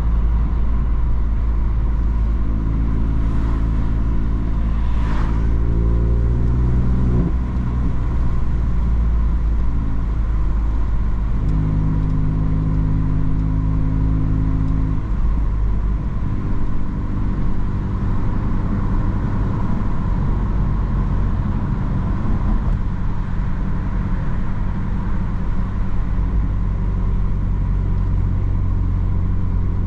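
BMW M3 F80's twin-turbo straight-six with an M Performance exhaust, driving along at moderate, fairly steady revs over road noise. The engine note climbs and drops back sharply about seven seconds in, like a gear change.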